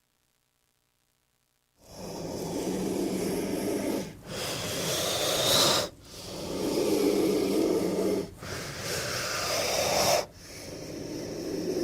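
King cobra hissing: after a short silence, five long breathy hisses of about two seconds each, separated by brief gaps, the last still going at the end.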